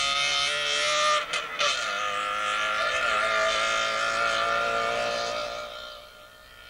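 Small rally car's engine running at high revs as it drives off, with a short break in the engine note about a second and a half in, then fading away into the distance.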